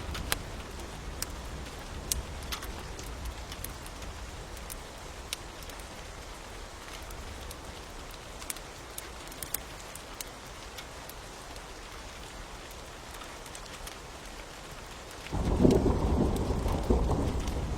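Steady rain with a crackling fire, sharp pops scattered through it. About fifteen seconds in, a loud low roll of thunder starts suddenly.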